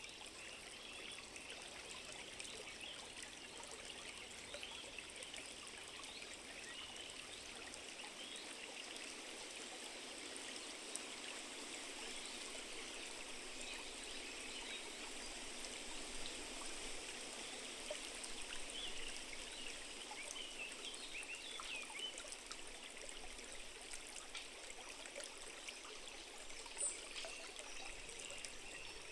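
Small stream trickling steadily, with one brief sharper sound near the end.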